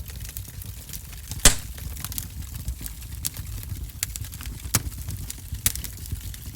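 Wood fire in a wood-burning stove crackling over a low rumble, with irregular sharp pops, the loudest about a second and a half in.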